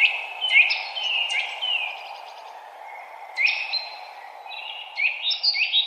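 Songbirds chirping in quick series of short, sharply sweeping notes, pausing briefly about two seconds in and then repeating faster near the end, over a steady low background hiss.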